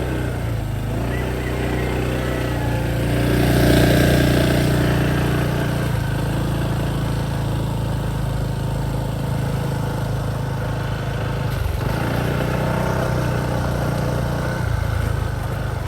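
Motorcycle engine running steadily while riding, swelling louder for a couple of seconds about four seconds in.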